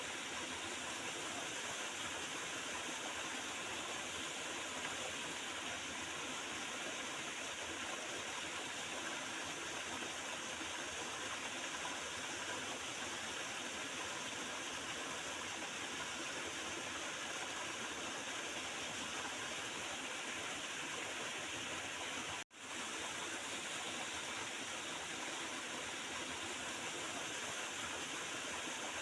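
Small river flowing, its water running and gurgling in a steady, even rush. The sound cuts out for a split second about two-thirds of the way through, then resumes unchanged.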